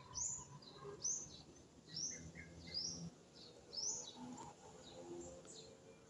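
A bird chirping in a garden: a run of short, high calls that each sweep down in pitch, about one a second, with fainter calls in between.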